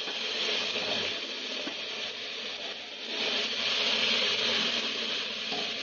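Sliced onions and ginger-garlic paste sizzling in hot oil and ghee in a non-stick pan while a spatula stirs and scrapes through them, the sizzle getting louder about three seconds in.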